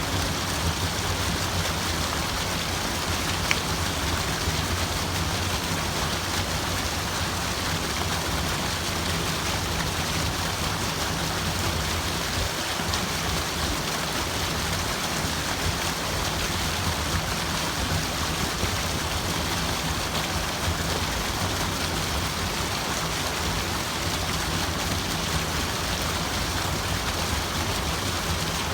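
Running water rushing steadily, an even continuous splashing hiss with no pauses.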